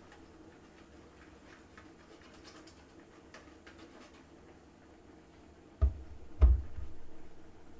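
Faint light clicks and taps, then two dull thumps about half a second apart, the second the louder, from things being handled or set down.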